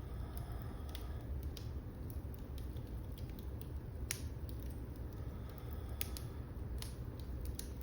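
Fire in a fireplace crackling: a steady low rumble of flames with scattered sharp pops, the loudest about four seconds in and a few more near the end.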